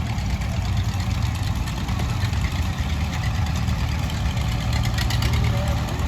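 Farm tractor engine running steadily at low speed.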